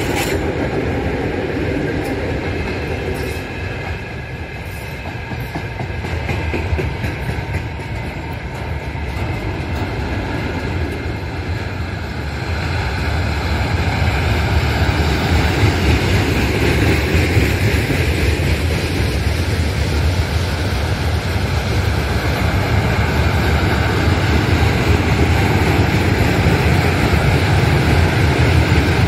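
A long mixed freight train rolling past: the wheels of boxcars, tank cars and container flatcars rumble and clatter on the rails. The 2M62UM diesel locomotive's engine fades out over the first few seconds, and the wagon noise grows louder about halfway through.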